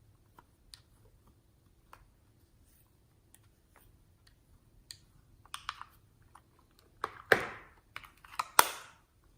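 Slime being handled and squeezed: scattered light clicks and crackles, then two loud wet crackling squishes near the end.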